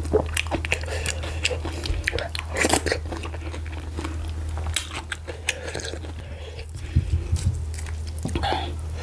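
Close-up chewing and wet mouth sounds of someone eating garri fufu with slimy ogbono soup: irregular smacks and clicks, with a steady low hum underneath.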